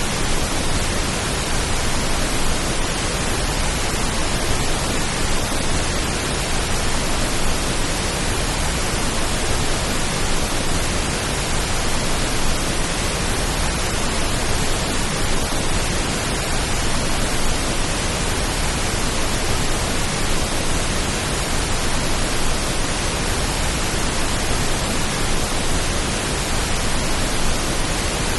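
Steady pink noise: an even, unbroken hiss spread from low to high pitches, used as a rain-like calming sound.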